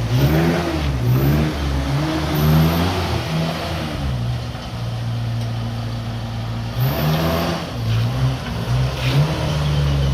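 Restored 1950 Austin's engine idling and being revved in a series of short blips, pitch rising and falling, for the first few seconds and again about seven seconds in, settling back to a steady idle between.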